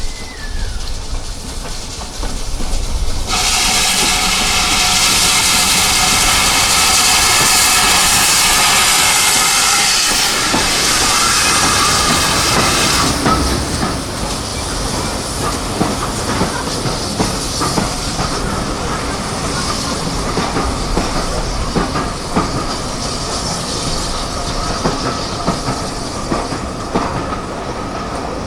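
A heritage train on the move: a loud hiss with steady tones for about ten seconds, then the wheels clicking and knocking over rail joints in a steady clickety-clack.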